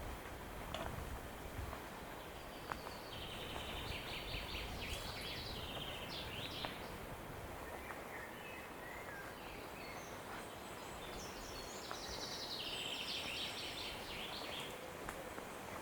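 Songbirds singing: a longer run of quick repeated notes about three seconds in and another about twelve seconds in, with a few shorter calls between, over a low background rumble.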